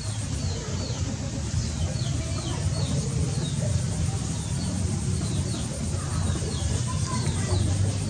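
Birds chirping in quick, short falling notes, over a steady low rumble.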